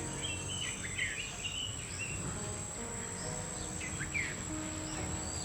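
A steady high-pitched insect drone, with short bird chirps in the first second and a half and again around four seconds in.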